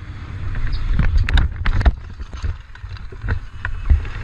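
Vehicle in motion recorded from a dashcam: a steady low rumble of road and wind noise, with a cluster of sharp knocks about a second in and two more near the end.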